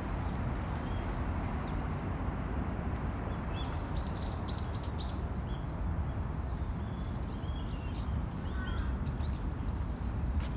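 Small birds chirping: a quick run of about six high chirps a few seconds in, then scattered calls later, over a steady low background hum.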